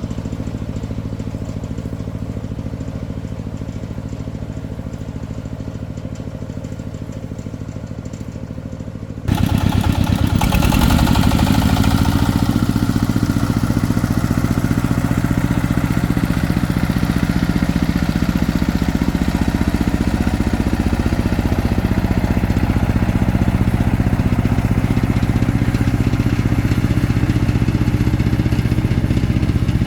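Single-cylinder diesel engine of a công nông farm vehicle running steadily, turning suddenly louder and harsher about nine seconds in and staying that way.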